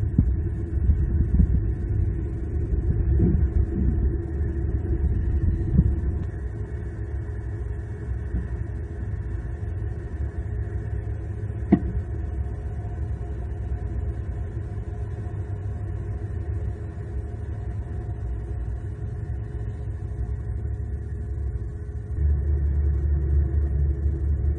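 Steady low outdoor rumble on the camera microphone, with a single sharp click about twelve seconds in; the rumble grows louder near the end.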